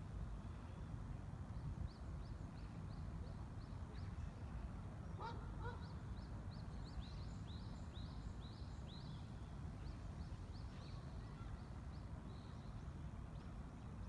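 Small birds chirping in a quick series of short, high, sliding notes, several a second, with a brief lower call about five seconds in, over a steady low rumble.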